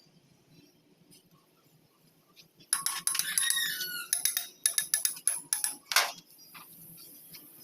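A run of sharp metallic clinks and rattles, metal pieces being handled and knocked together, starting about three seconds in and ending with a louder clink about six seconds in; a faint steady hiss follows.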